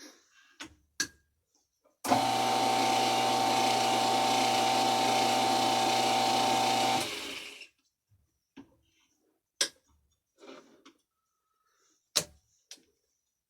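Metal lathe switched on for a thread-cutting pass with a single-point Acme tool: its motor and drive run steadily with a constant whine for about five seconds, then it is switched off and winds down. Before and after, single sharp clicks and clunks of the lathe's levers and hand cranks being worked between passes.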